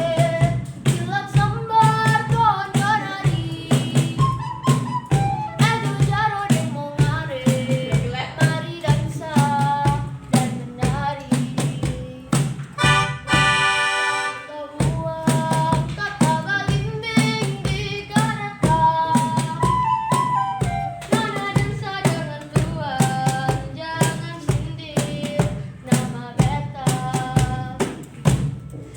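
Children's ensemble performing a folk song: a moving melody over a steady low accompaniment with a regular tapping beat, and a brief held chord about halfway through.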